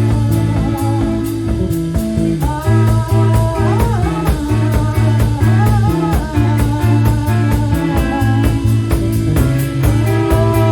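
Rock band playing: bass and guitar with a regular drum beat, and a lead line, sung or played on guitar, bending and wavering over it for a few seconds from about two and a half seconds in, returning near the end.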